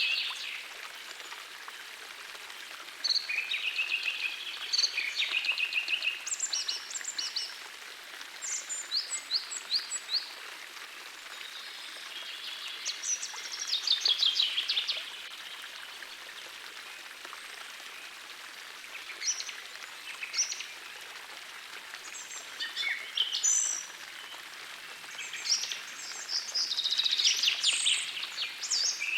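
Songbirds singing in short bouts of quick, high repeated notes and chirps every few seconds, over the steady rush of a gentle forest stream.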